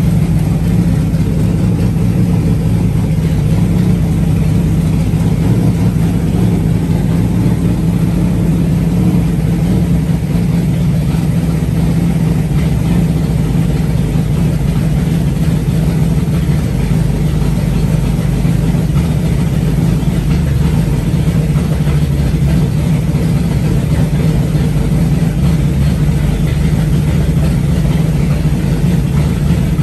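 Newly built 360 cubic-inch stroker V8 running steadily at a constant speed on its first start-up run.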